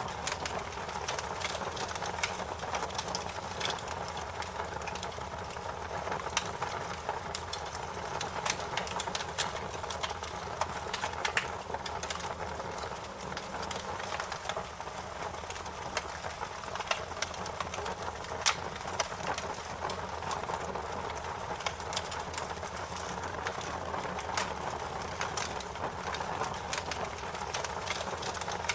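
Wood fire crackling: a steady hiss dotted with frequent sharp pops and snaps, one louder snap a little past halfway.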